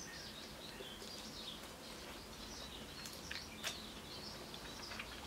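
Quiet eating: a mouthful of hamburger being chewed, with a few short wet mouth clicks about three seconds in as fingers are licked. Faint bird chirping and a steady low hiss sit underneath.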